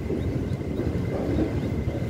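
Passenger train running along the track, heard from on board: a steady low rumble of the coaches' wheels and running gear.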